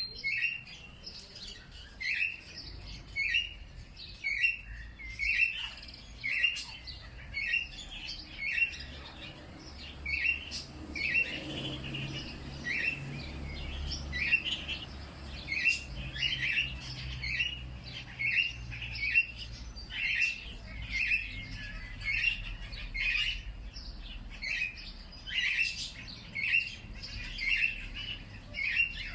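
Songbirds chirping: one bird repeats a short, sharp chirp a little more than once a second, with fainter calls from other birds behind it.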